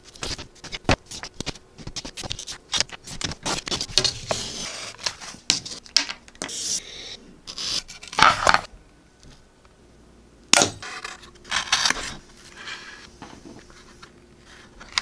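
Hand build work on a foam RC model plane: repeated scraping and tearing sounds with sharp clicks and knocks, typical of cutting and taping.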